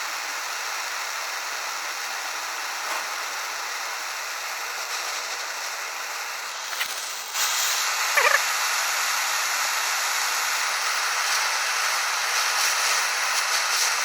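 Steady hiss of a gas blowtorch flame heating a copper sealing washer to anneal it and soften it. The hiss grows louder about seven seconds in, just after a click.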